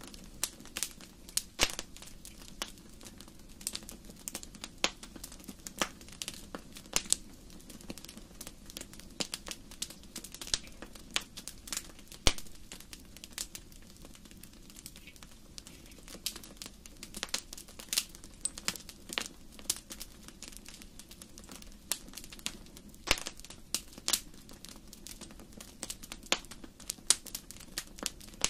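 Wood fire crackling in a fireplace: irregular sharp pops and snaps over a soft low hiss of burning, with a few louder pops.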